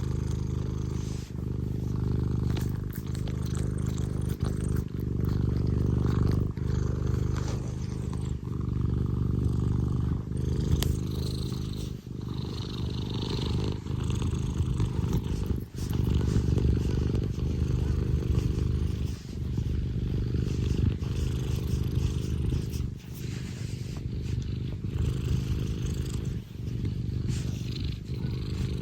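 Scottish Fold cat purring loudly and steadily, close to the microphone, with a brief break at each breath about every second or two.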